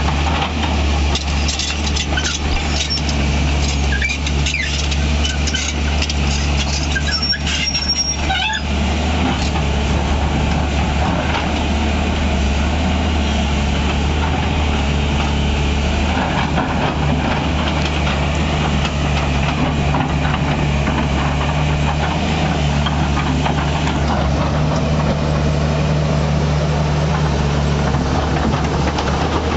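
Tata Hitachi EX 200 LC Super hydraulic excavator's diesel engine running steadily under work, with spells of rattling and knocking during the first nine seconds or so and a brief high squeal about seven seconds in.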